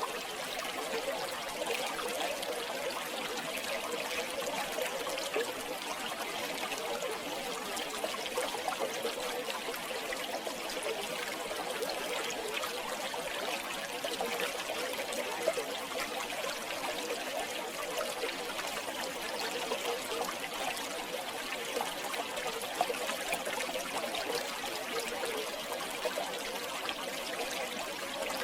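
Shallow river water flowing and trickling steadily, a busy, bubbling sound of small splashes with no lulls.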